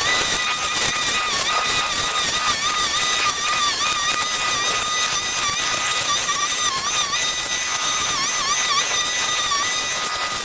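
Small petrol engine of a handheld cutting tool running at high revs, its pitch dipping briefly again and again as it bogs into dense overgrowth.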